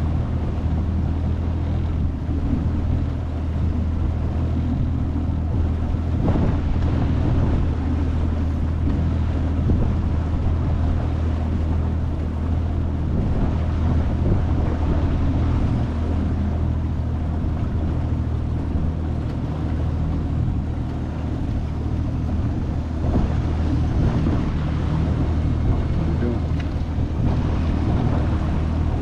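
25 hp Mercury four-stroke outboard motor running steadily under way, with wind noise on the microphone.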